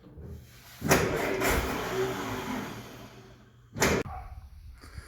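M151A1 jeep's four-cylinder engine being started: a loud burst of cranking and firing about a second in that dies away over a couple of seconds, then a second short burst near the end.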